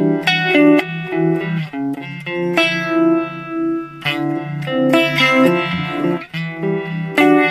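Fender Telecaster electric guitar played clean through an Animals Pedal Car Crush Chorus/Vibe pedal into a Roland JC-90 amp: strummed chords and picked notes that ring out with a wavering, pulsing modulation, the low notes throbbing about three times a second.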